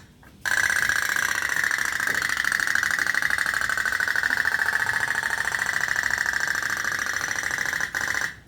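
Otok-otok (putt-putt) boat running at full throttle: a steady, fast, even putt-putt pulsing that holds with a slight fall in pitch, briefly interrupted near the end.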